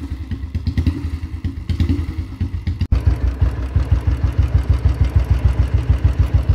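1966 Royal Enfield Bullet's single-cylinder engine idling with a steady, even thump. There is a momentary dropout about three seconds in, after which it carries on.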